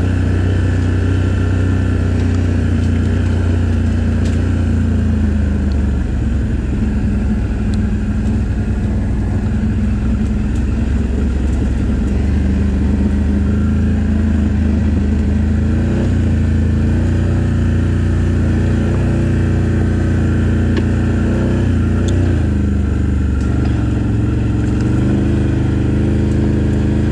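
ATV engine running steadily, its pitch shifting up and down several times with the throttle.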